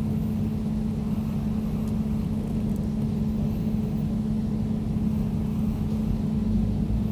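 Air conditioner running steadily: a constant hum over a low rumble.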